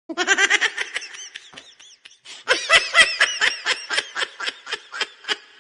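Laughter sound effect: a rapid, high-pitched 'ha-ha-ha' that trails off. It starts again a little after two seconds in and fades once more.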